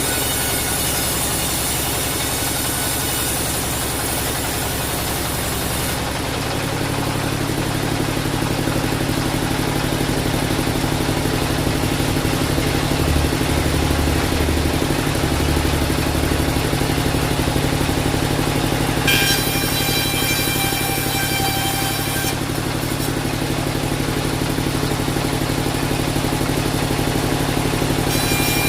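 Band sawmill machinery running steadily, with a high whine that cuts out about six seconds in and comes back twice later.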